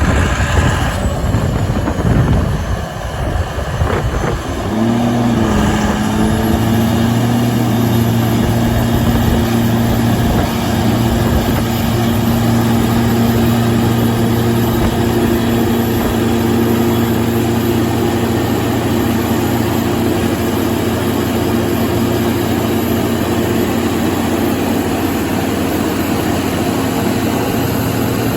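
John Deere diesel engine of a 105 kW Kohler generator set just after starting: it runs rough and uneven for the first few seconds, then comes up to speed about five seconds in and settles into a steady, even run.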